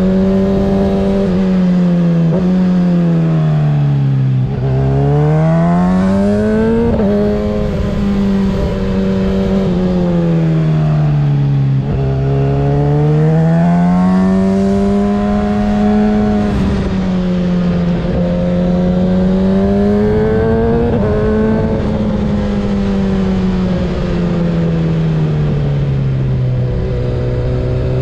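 Kawasaki ZX-6R 636 motorcycle's tuned inline-four with a Graves exhaust, riding: the engine note sinks and climbs again several times as the throttle is rolled off and back on.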